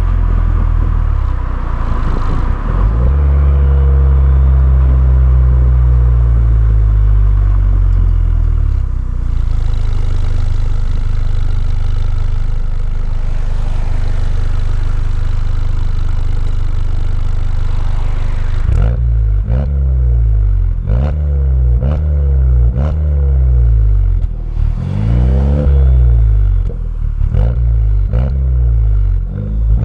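Car engine through a Milltek cat-back race exhaust, heard from outside: it idles, is held at higher revs for several seconds a few seconds in, then from about two-thirds of the way through is revved in a run of quick throttle blips, roughly one a second, each rising and falling in pitch.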